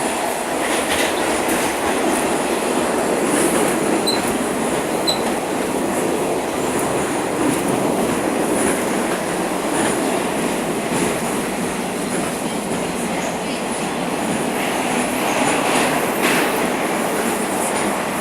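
Moscow Metro train running at speed through the tunnel between stations, heard from inside the car: a steady rumble and rush of wheels on rail, with two brief high squeaks about four and five seconds in.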